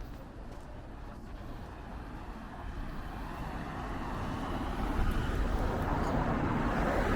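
A road vehicle approaching, its noise growing steadily louder from about halfway through and staying loud near the end.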